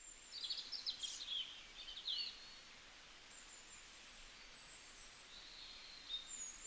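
Birds chirping over a faint outdoor hiss, a morning birdsong ambience. A cluster of quick, high chirps comes in the first two seconds, then fainter, sparser calls follow.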